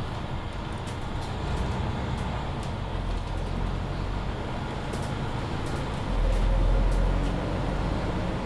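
Mercedes-Benz Citaro C2 hybrid city bus on the move, heard from inside: steady drivetrain and road rumble with light interior rattles. The low rumble swells louder for about a second and a half near the end.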